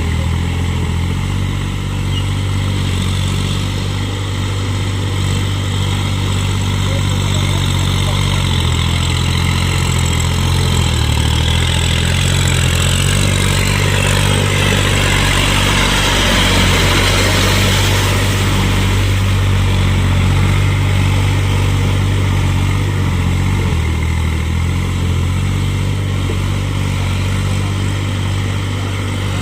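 New Holland tractor's diesel engine running steadily, with a stronger hiss rising in the middle and fading again.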